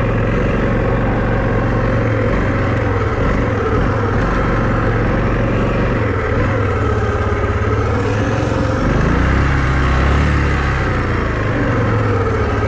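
Vehicle engine running steadily, its revs rising and falling, and rising more strongly for a couple of seconds around two-thirds of the way through.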